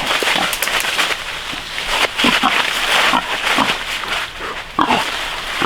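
Pigs grunting and squealing, many short calls one after another.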